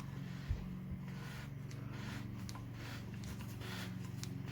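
Faint scratchy handling sounds of hands gripping and twisting the control ring of a WACACO Pipamoka portable coffee maker against its stainless steel mug, with a soft knock about half a second in. A low steady hum runs underneath.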